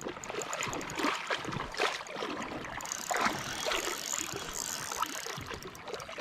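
River water sloshing and splashing in irregular bursts as someone wades through it.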